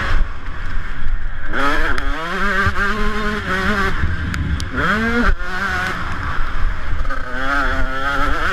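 Motocross bike engine revving hard: its pitch climbs steeply about one and a half seconds in and again near five seconds, then holds and wavers between climbs, over a steady low rumble.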